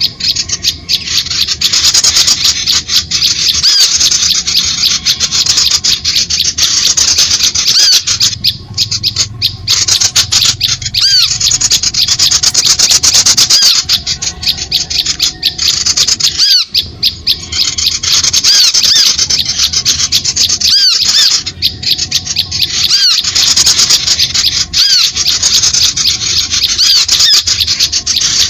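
Bird-lure recording of small songbirds: a dense, unbroken mass of rapid, high-pitched chattering and squeaky calls, many quick notes sweeping up and down.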